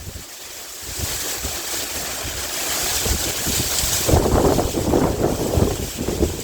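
Strong wind gusting across the microphone: a high hiss that swells in the middle, and low buffeting rumbles in the second half.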